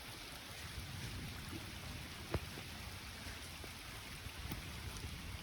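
Steady rain falling, with a few scattered sharp ticks, the clearest about two and a half seconds in.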